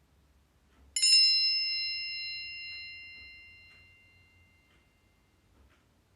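A single bell-like chime struck once, about a second in, its several clear high tones fading away over about four seconds. It is the cue tone that ends a dialogue segment and signals the interpreter to begin interpreting.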